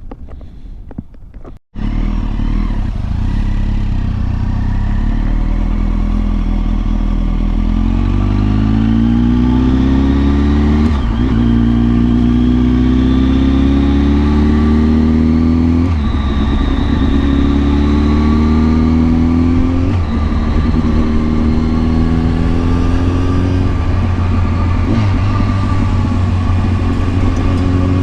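Kawasaki ZX-10R inline-four sportbike engine pulling hard through the gears. Its pitch climbs steadily, then drops sharply at each of four upshifts.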